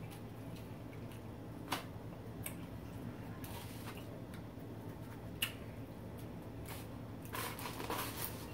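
Eating sounds of a cheeseburger and fries being chewed, with a few short sharp clicks and soft rustles, over a low steady hum.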